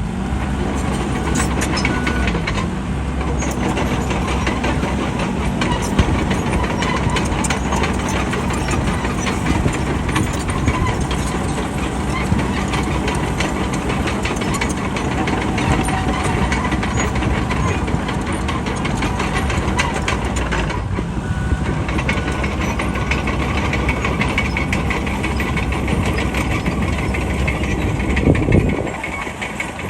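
Bulldozer's diesel engine running steadily, with frequent short metallic clanks and knocks over it. Near the end the engine briefly swells louder, then drops back.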